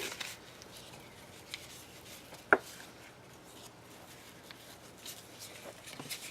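Faint handling of craft materials on a table, with one sharp tap or click about two and a half seconds in.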